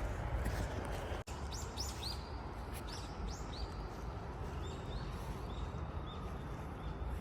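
Wild birds chirping in woodland: a quick run of falling chirps, then short, level, high notes, over a steady low outdoor rumble. The sound cuts out for an instant just over a second in.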